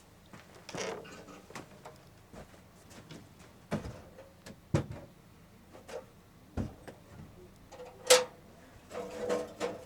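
Scattered knocks and clicks of things being handled, irregular and a second or so apart, with one sharp clack about eight seconds in.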